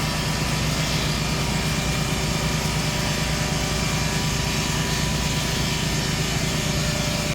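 Portable sawmill's petrol engine running steadily, cutting off suddenly at the very end.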